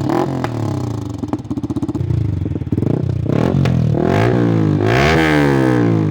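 Yamaha R15 V3's single-cylinder engine revving through a modified exhaust: repeated throttle blips with the pitch rising and falling, a few sharp cracks in between, and a longer rev near the end.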